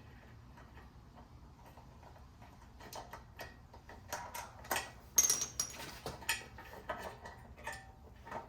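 Irregular metallic clicks and clinks of bolts and hand tools as the mounting bolts of a new ignition coil are started into a Toro lawnmower engine, left loose for setting the coil gap. The clicking begins about three seconds in, with its loudest clink and a brief metallic ring around the middle.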